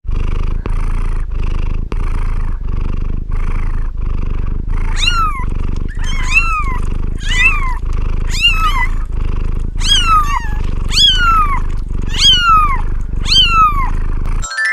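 A domestic cat purring steadily in a rhythmic pulse. From about five seconds in, it meows about once a second, each meow falling in pitch, over the purr. The sound cuts off suddenly near the end.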